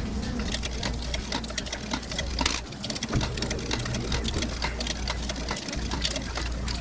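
Laundromat machine running: a steady low hum under a rapid, uneven clatter of small clicks.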